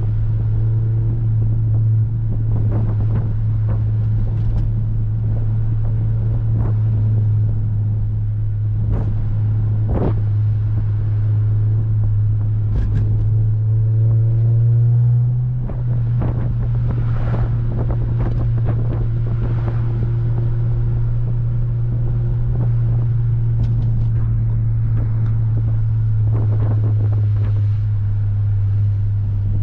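An 8th-generation Honda Civic Si's 2.0-litre four-cylinder engine and exhaust drone steadily while driving. About halfway through the pitch climbs under acceleration, then the level dips briefly before the steady drone resumes.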